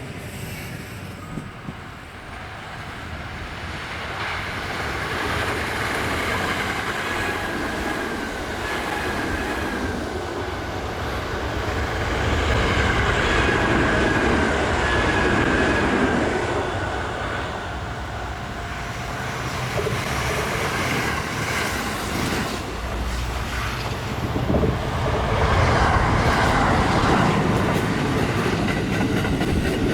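Electric train running on the rails: a continuous rumble that swells, eases and swells again, with a thin high squeal from the wheels near the middle.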